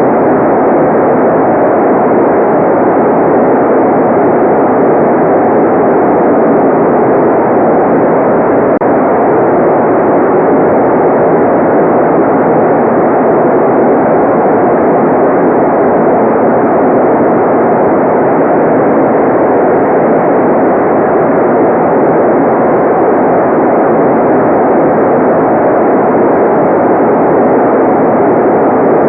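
Steady, unbroken white noise: an even rushing hiss with no changes or events. It sounds dull and muffled, with no treble at all.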